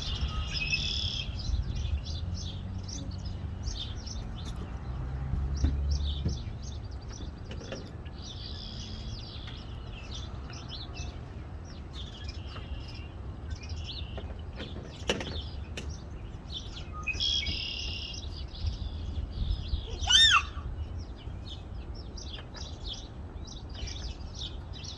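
Small birds chirping rapidly and continuously as they squabble, with one louder, rising call late on, over a low rumble.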